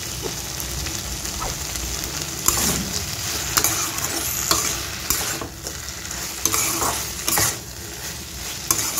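Flat beans and coriander frying in mustard oil in a kadai, sizzling steadily, with a spatula stirring and scraping against the pan in repeated strokes about once a second from two and a half seconds in.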